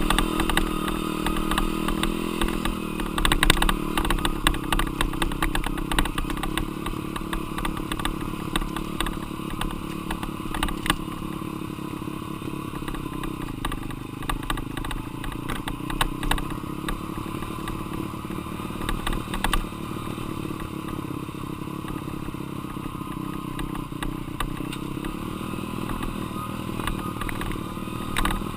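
Dirt bike engine running steadily, its pitch drifting gently up and down, with scattered clattering knocks, the loudest about three to four seconds in.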